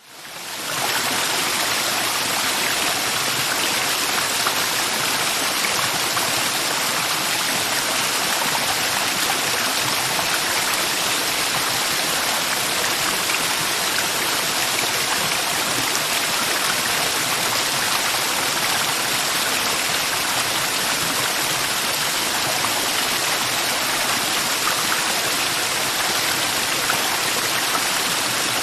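Mountain river rushing over rocks, a steady, even water noise that fades in over the first second.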